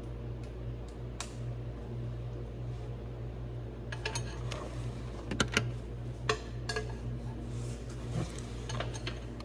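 Metal hand tools, a socket wrench and extension, clinking and clicking against bolts and the tractor's metal in a tight space: scattered sharp clinks that come thicker from about four seconds in. A steady low hum runs underneath.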